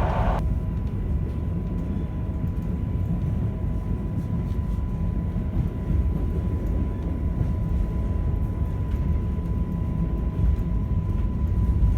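Interior of a Polish EN57ALd electric multiple unit running along the line: a steady low rumble of the wheels on the track, with a thin steady high whine over it.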